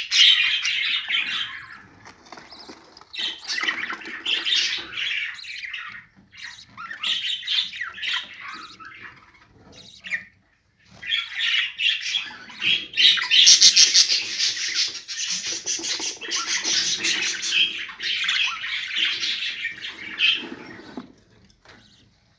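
Bird calls, squawks and chirps, coming in bursts with short pauses.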